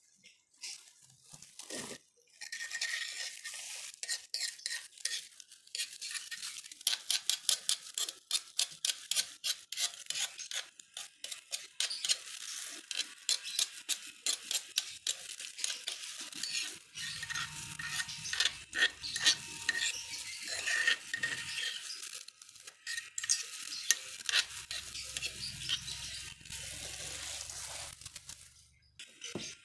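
Steel spoon scraping and clinking against a stone mortar (cobek), gathering up ground chili sambal. It makes a long run of quick scrapes and sharp taps.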